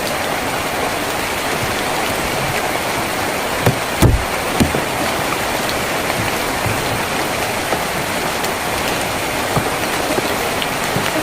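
Steady rain drumming on a tin roof, an even hiss with a few heavier drops thudding about four seconds in.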